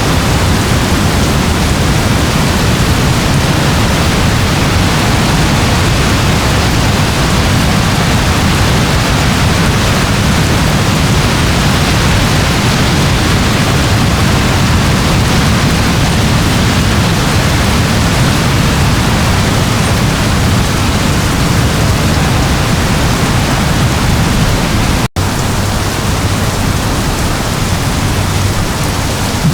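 Steady rain falling: an even, dense hiss with a low rumble underneath. It cuts out for an instant about 25 seconds in.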